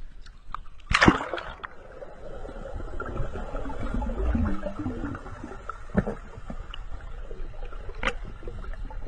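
Water splashing and sloshing, with one loud splash about a second in and smaller splashes later.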